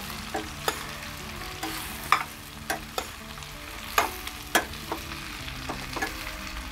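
Besan-coated bitter gourd (karela) sizzling as it fries in oil in a stainless steel kadhai. A steel spoon stirs it, scraping and knocking irregularly against the pan.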